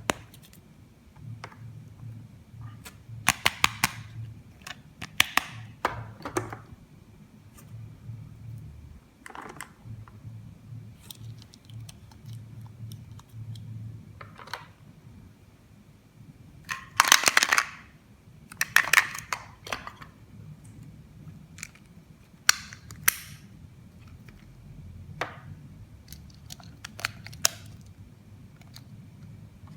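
Plastic toy pieces and packaging being handled, with scattered sharp clicks and taps. A louder crinkly rustle comes about seventeen to nineteen seconds in.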